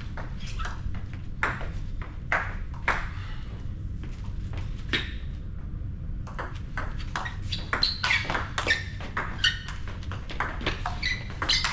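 Table tennis ball clicking off bats and bouncing on the table in a rally: a few scattered hits at first, then quick back-and-forth strokes from about halfway through.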